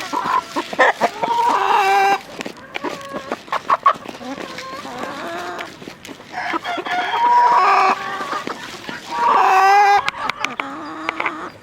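Chickens calling: several long, drawn-out calls that fall in pitch, the loudest near the end, with a rooster crowing among them.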